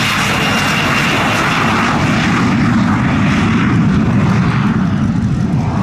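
A Fairchild A-10 Thunderbolt II on its landing roll just after main-wheel touchdown, its two turbofan engines running with a steady loud rushing whine that swells a little midway.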